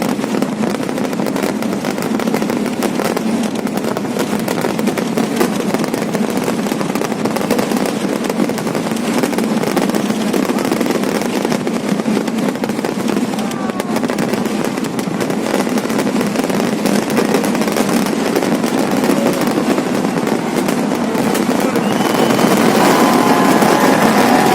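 Large fireworks display going off in a dense, unbroken barrage: rapid firecracker bursts run together into a continuous crackle. Thin whistles sound over it near the end.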